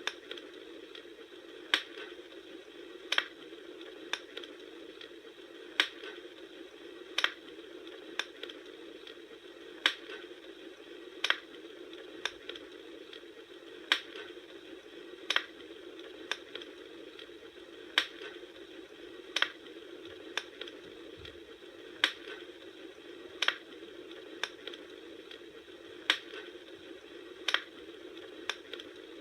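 Bonfire burning, with a steady low hiss and sharp crackling pops that come fairly regularly, about every second and a half.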